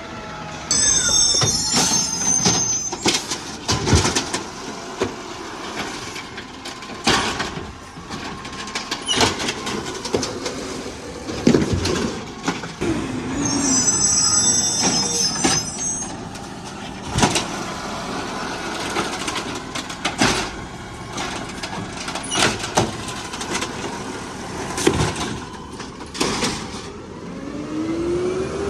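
Garbage truck working a curbside collection route: its engine runs under repeated bangs and clatter, as of carts being tipped and knocked against the hopper. A high-pitched whine rises twice, near the start and about halfway through.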